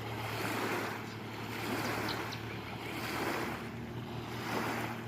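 Steady rushing outdoor noise of wind and water, swelling and fading about every second and a half, over a low steady hum.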